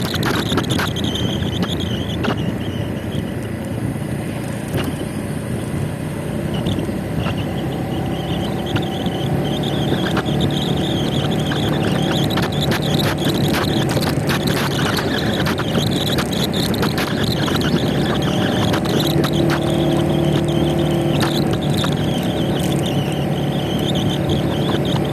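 Motor scooter running steadily on the road, its engine hum under constant road and wind noise, with scattered small knocks and ticks.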